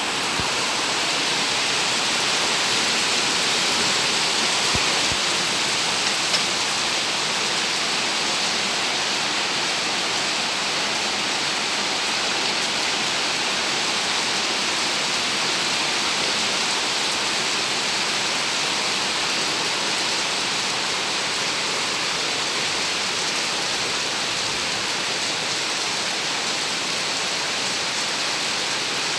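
Rain falling steadily as a dense, even hiss.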